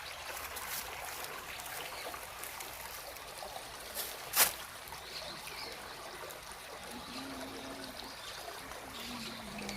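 Mountain stream trickling steadily, with one sharp click about four and a half seconds in.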